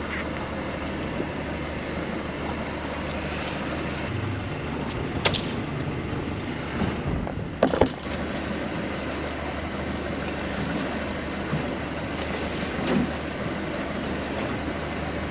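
Small fishing boat's engine running steadily, with a few sharp knocks about five and eight seconds in as the net and catch are handled aboard.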